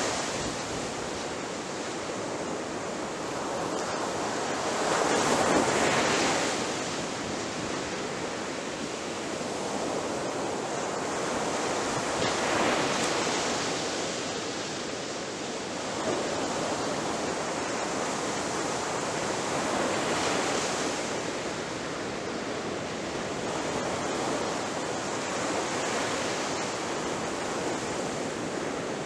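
Ocean waves breaking on a beach, a steady wash of surf that swells with each breaker, about every six to eight seconds.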